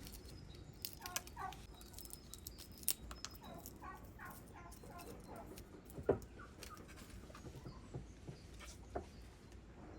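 Poultry clucking softly in short runs of brief falling calls, with scattered light clicks and one sharper knock about six seconds in.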